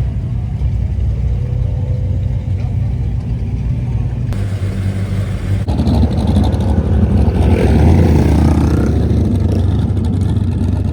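A car engine running, with revving that swells from about six seconds in and is loudest near eight seconds.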